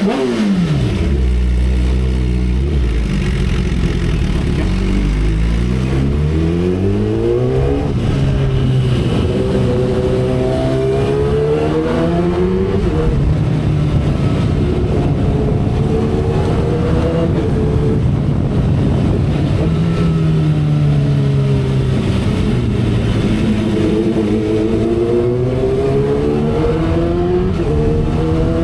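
A 2012 Kawasaki Ninja ZX-10R's inline-four engine under way, with wind noise throughout. After a brief dip at the start, its pitch climbs steadily for several seconds as the bike accelerates, then rises and falls repeatedly as the throttle is opened and eased.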